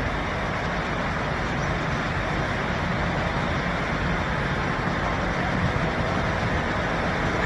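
Steady urban traffic noise, an even rumble and hiss with no distinct events.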